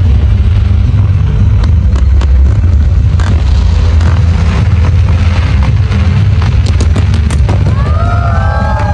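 Fireworks display: a dense run of crackles and pops over a deep, continuous rumble of launches and bursts. A few rising whistle-like tones come in near the end.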